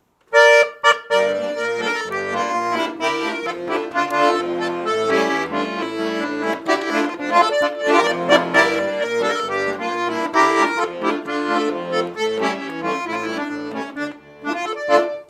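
Button accordion playing a song's instrumental introduction: a melody over steady bass and chords, starting abruptly just after the opening.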